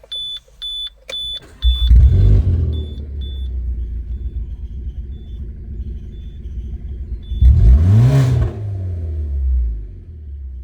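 A dashboard warning chime beeps repeatedly, then the Citroën C4 Grand Picasso's 1.8-litre four-cylinder petrol engine (6FY) starts about two seconds in and idles under the fainter beeping. A little past seven seconds it is revved once, rising and falling, before settling back to idle.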